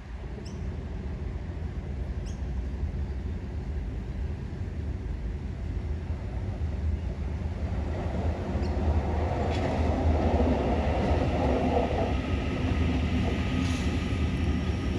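Train running with a steady low rumble that grows louder about eight seconds in, faint steady tones sounding above it.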